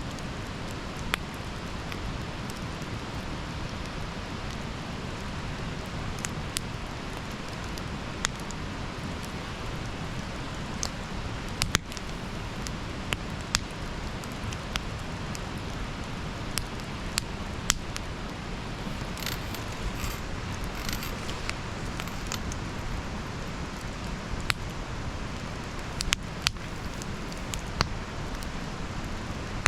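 Wood campfire burning, with irregular sharp pops and crackles over a steady low rush. A short flurry of fine, high crackles comes about two-thirds of the way in.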